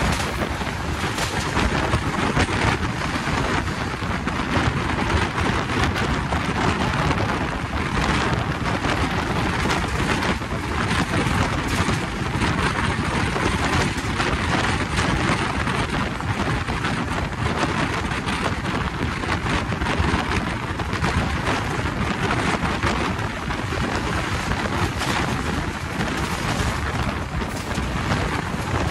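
Express train running at speed: a loud, steady rush of wind and rumble of wheels on the rails, with frequent sharp clicks throughout.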